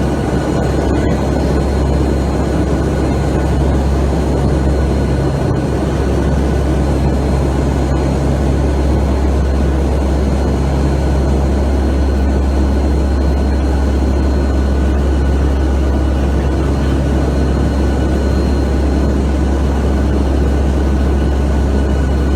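Steady, loud engine drone and air noise inside the cabin of a hurricane reconnaissance aircraft in flight, with a deep hum and a few faint steady whining tones above it.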